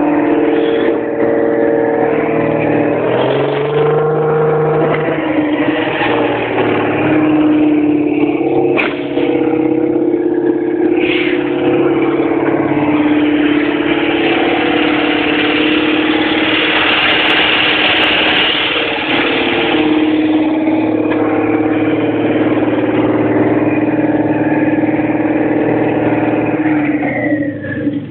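Citroën Dyane 4's 435 cc air-cooled flat-twin engine running, its speed shifting a little at times. Near the end its pitch and level fall away.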